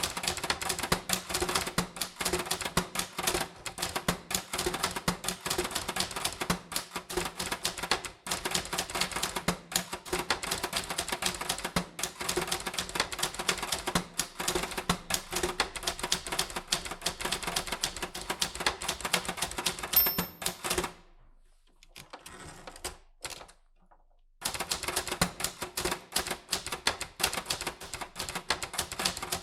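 Typewriter typing: a rapid, steady run of key strikes, breaking off for about three seconds a little past two-thirds of the way through before the typing starts again.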